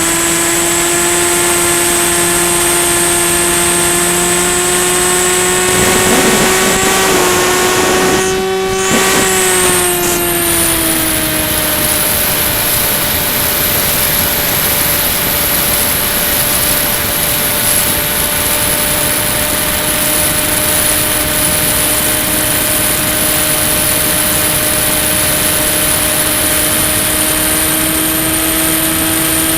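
Electric motor and propeller of a Ranger EX FPV model plane running steadily, heard from onboard over a rushing haze of air noise, with a high whine above it. A little over a third of the way in, the pitch wavers, drops out for a moment and falls, then settles to a steady drone.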